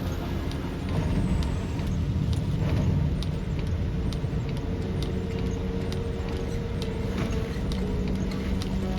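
Car driving on a highway in a rainstorm: a steady low rumble of engine and tyres on the wet road, with scattered sharp taps of rain striking the car.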